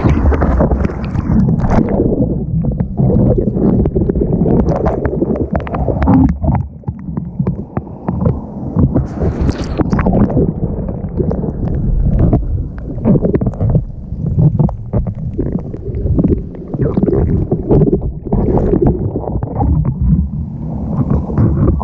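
Seawater rushing and sloshing over a board-mounted GoPro in its waterproof housing, a loud, muffled, irregular rumble with a brighter splash about halfway through.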